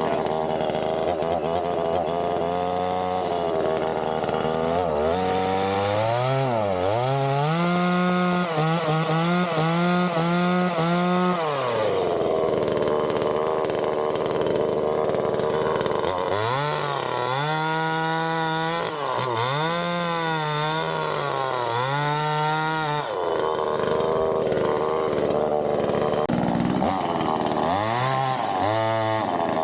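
Budget Neotec two-stroke chainsaw running, its engine pitch rising and falling over and over as the throttle is worked, with spells of steadier running in between.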